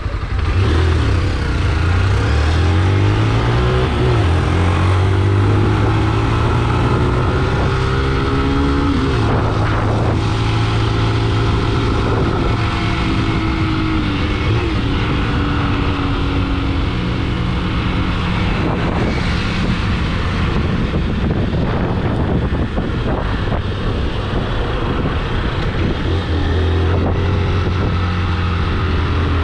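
Vehicle engine accelerating, its pitch rising and dropping back as it shifts up through the gears, then running steadily at cruising speed with road and wind noise.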